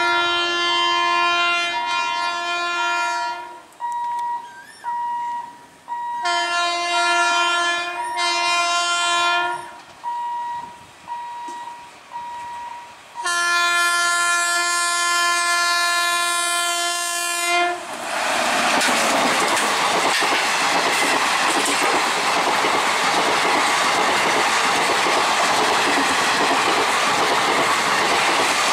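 WAP-5 electric locomotive sounding its horn in three long blasts as it approaches; the last runs about four seconds. About eighteen seconds in, the horn stops and the train passes close by: a loud, steady rush of wheels on rail with clickety-clack from the coaches.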